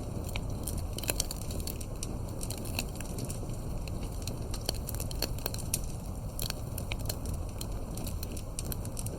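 Wood fire crackling: irregular small pops and snaps over a steady low rumble.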